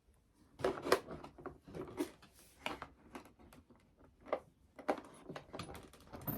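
Irregular clicks, taps and knocks from handling small hinges against foam board.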